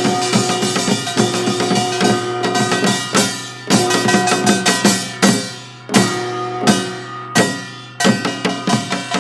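Live band music: a drum kit with bass drum and snare under held guitar or keyboard chords. From about three seconds in the band plays a run of loud accented hits together, each left to ring out before the next, then the steady beat returns near the end.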